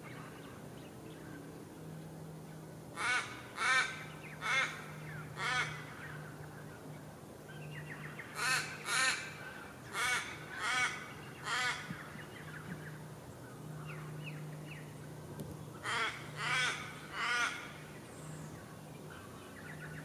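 A bird giving loud, harsh, crow-like caws in three runs: four calls, then five, then three, each run about a second or two apart and spaced well over half a second between calls.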